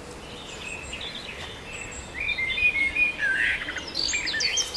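Birds chirping and calling in a forest: short, high whistled notes, sparse at first and growing busier from about two seconds in.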